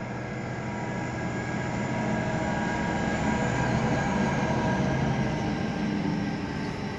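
Exo Bombardier ALP-45DP locomotive 1352 passing close, its diesel engines running with a steady hum over the rumble of wheels on rail, followed by its bilevel coaches rolling by. The sound builds to its loudest as the locomotive goes past about four to five seconds in.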